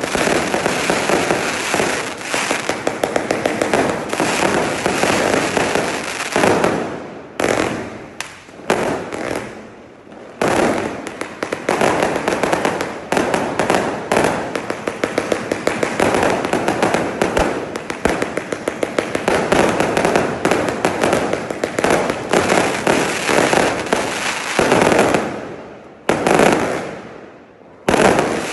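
Firework cake firing continuous rapid volleys of bangs and crackle, with a few short lulls where one run of shots ends and the next begins.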